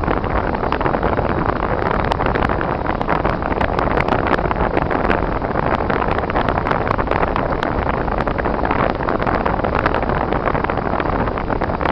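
Car driving on a snowy road: steady engine and tyre noise with frequent small scattered ticks.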